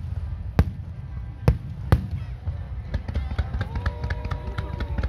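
Firework shells bursting with three sharp bangs in the first two seconds, then a fast crackle of many small reports from about three seconds in. Music played along with the display sounds throughout, with a held note near the end.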